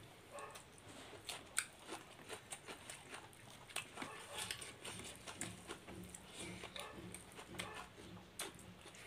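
Close-miked eating sounds of fish curry and rice eaten by hand: wet chewing and lip smacks with many irregular sharp clicks.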